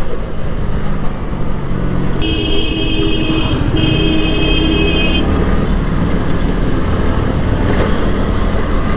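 A motorcycle riding in city traffic, its engine running under a steady rush of wind on a helmet-mounted microphone. About two seconds in, a vehicle horn sounds in two long blasts, back to back, for about three seconds.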